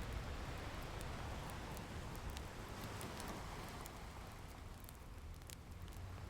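Wood fire crackling with scattered sharp pops and clicks, over a low wash of ocean waves that swells and then eases about two-thirds of the way through.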